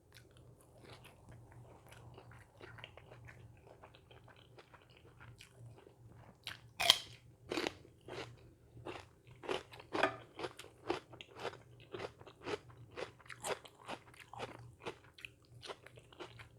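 A person chewing crisp food close to the microphone: a run of sharp crunches, faint at first and louder and more frequent from about six seconds in.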